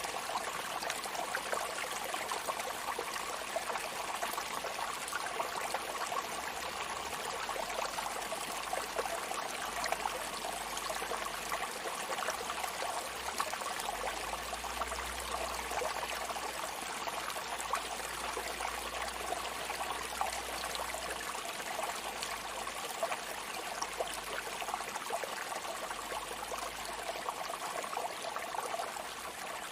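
Sea water washing on a shore: a steady, even rush with a fine crackling fizz of foam and no separate wave breaks standing out.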